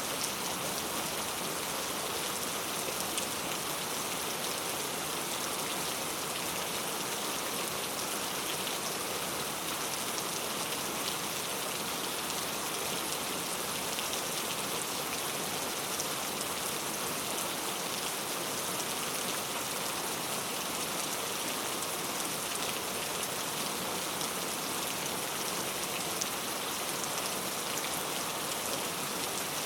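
Steady rain falling, a dense even hiss of drops pattering on a surface with fine crackling drop impacts throughout.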